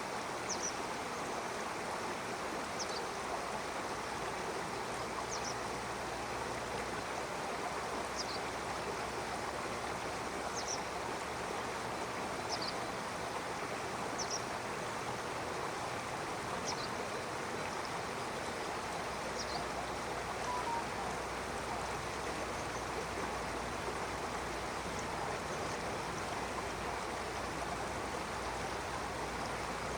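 Stream water flowing steadily, with a bird giving short, high chirps every couple of seconds, thinning out in the last third.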